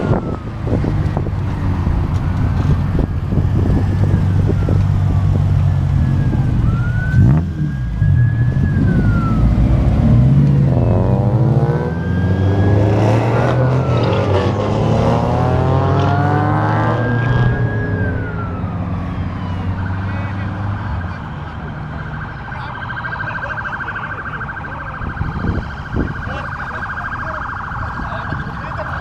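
A siren wailing, sweeping up and down in pitch, over idling car engines. About two-thirds of the way through it switches to one steady held tone as the engine sound drops away.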